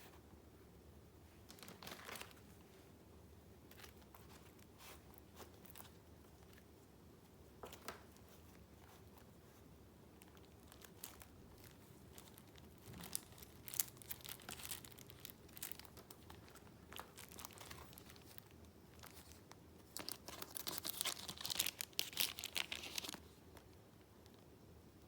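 Paper being handled: scattered short rustles and soft clicks. There is a busier stretch a little past halfway and a longer, louder rustle near the end.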